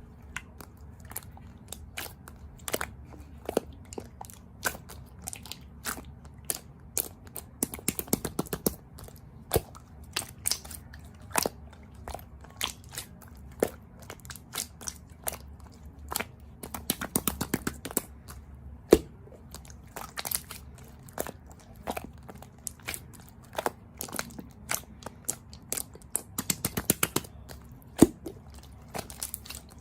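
Close-up crunching: sharp crisp clicks and crunches throughout, with three denser crackling flurries spaced roughly nine seconds apart.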